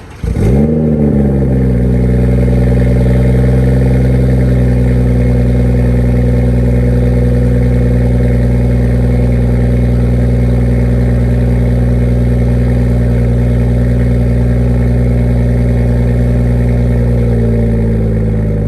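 BMW 340i's B58 turbocharged inline-six starting up through a Dinan full exhaust: it cranks, catches and flares its revs briefly, then settles into a steady, loud idle that eases slightly lower near the end.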